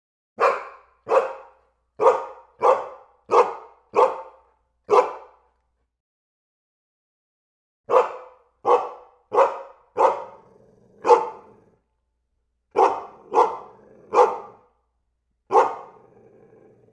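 A dog barking in runs of quick barks about two thirds of a second apart: seven barks, a pause of about three seconds, five more, then three, then a single bark near the end.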